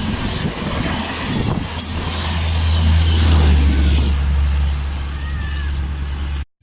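An express train hauled by a WAP-7 electric locomotive rushing past at speed: steady loud wheel and rail noise with a deep rumble that builds through the passage. It cuts off abruptly near the end.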